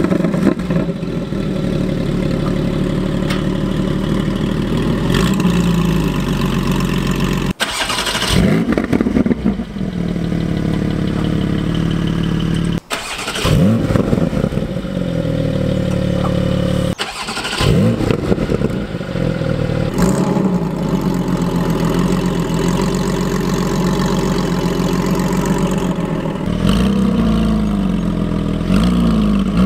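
Porsche 718 GT4's 4.0-litre flat-six exhaust with the particulate filter removed, running steadily with several blips of revs that rise and fall. It comes as a few separate clips cut together, breaking off abruptly a few times.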